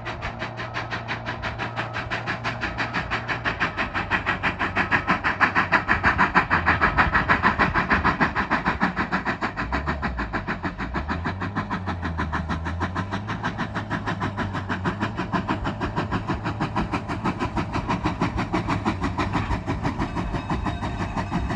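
K-36 narrow-gauge steam locomotive working, its exhaust chuffing in a rapid, even rhythm that grows louder to a peak about seven seconds in, then eases slightly.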